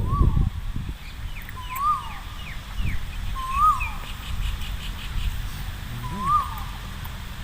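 A bird calling over and over outdoors, a short whistled note that rises and falls, about once every two seconds. Quick higher chirps from another bird come in the first few seconds, over a low rumble of wind.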